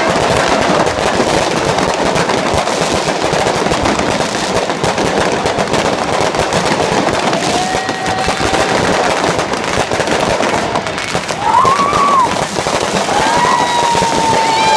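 Fireworks going off in a rapid, continuous barrage of bangs and crackles. A few short whistle-like tones sound over it from about halfway through, more of them near the end.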